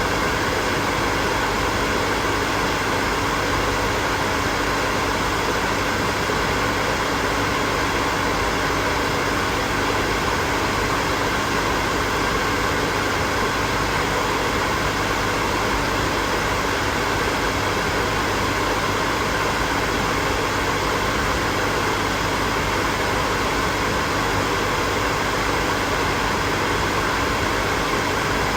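Hair dryer blowing, a steady whooshing rush of air with a faint motor hum, unchanging throughout.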